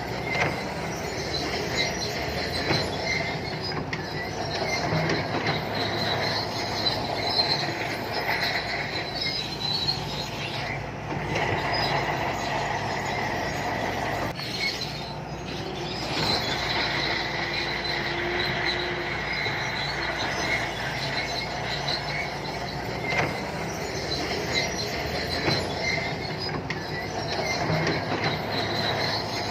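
SANTUI crawler bulldozer working: a steady diesel engine drone under squealing and clanking steel tracks.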